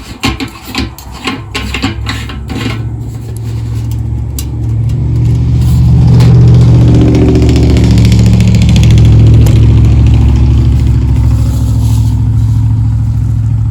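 A few clicks and rattles of plastic being handled, then a motor vehicle's engine running close by. It grows louder over a couple of seconds and holds as a steady low rumble.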